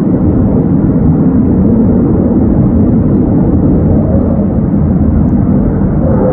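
Military jet aircraft flying past, a loud, steady rumble of jet engine noise that is heaviest in the low range.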